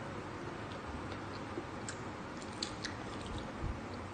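People chewing and eating mouthfuls of pork binagoongan and rice, with a few small sharp clicks in the middle.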